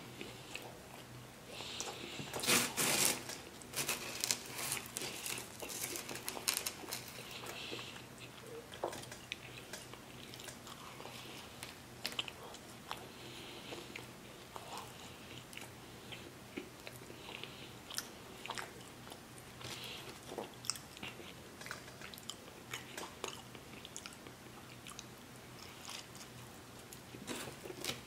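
A person biting into and chewing pizza close to the microphone: crisp crunching and chewing, with many short crackles, loudest about three seconds in.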